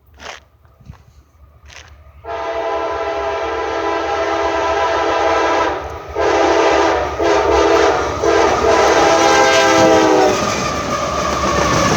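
Diesel locomotive air horn blowing two long blasts for the crossing, starting about two seconds in, with a brief break between them. The pitch sags as the locomotive passes. The train's rumble carries on after the horn stops.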